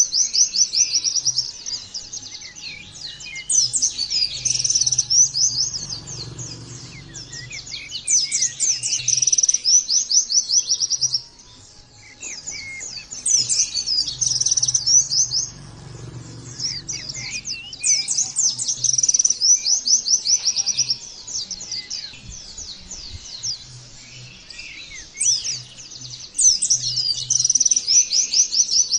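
White-eye (pleci) song: rapid, high-pitched twittering phrases, each lasting a couple of seconds, repeated again and again with short pauses between. This is the hard, continuous singing that keepers play as a training recording for pet white-eyes.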